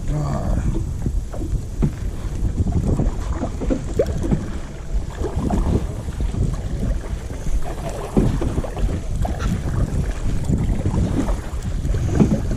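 Kayak paddle strokes swishing through the water, with water splashing against the hull, over a steady low rumble of wind on the microphone.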